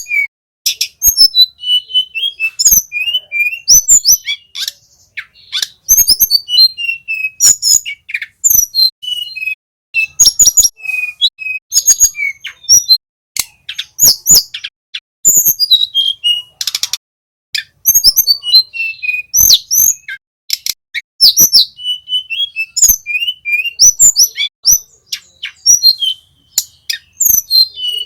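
Small flycatcher singing a rapid, loud string of sharp chirps, short whistles and ticking notes with hardly a pause, a bird-song track played to lure and tutor caged songbirds.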